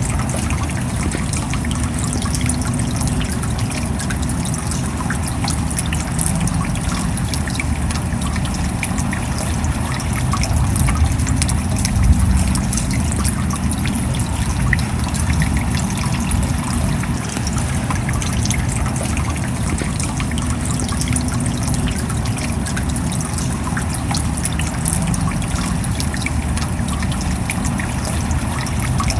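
Steady rain with many close individual drops ticking and water trickling, running evenly throughout.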